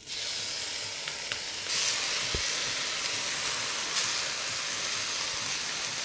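Steaming boiled broccoletti (broccoli rabe) dropped into hot olive oil in a stainless steel wok, sizzling at once. The sizzle starts suddenly and grows louder about two seconds in as more greens go in, then frying steadily.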